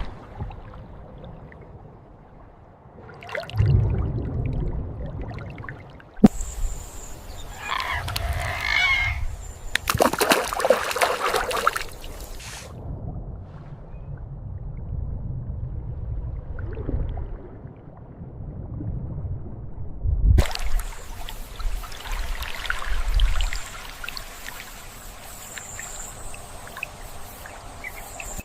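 Water sloshing and trickling.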